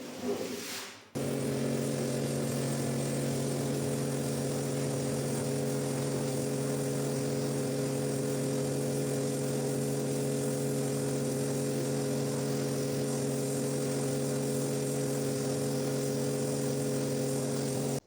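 An electric cleaning machine's motor running steadily with a constant hum, coming in abruptly about a second in.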